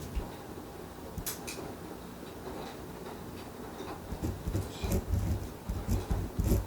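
Desk study sounds: a ballpoint pen and paper being handled, with scattered light clicks and, in the second half, a run of soft low thumps.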